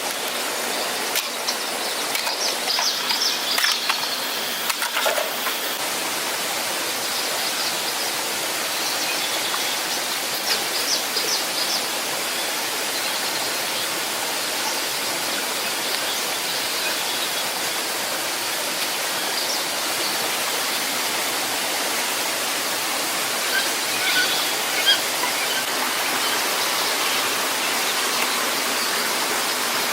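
Steady rush of falling water from a waterfall or stream. Short high chirps come through a few seconds in and again about ten seconds in, and a couple of sharp ticks come about twenty-four seconds in.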